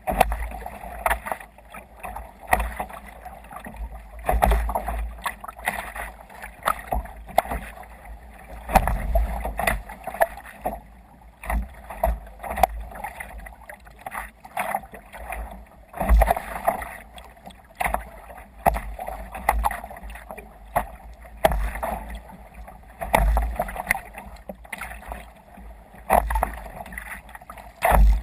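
Water splashing and slapping against a sailing kayak's hull in waves, in irregular surges every second or two with low thuds underneath.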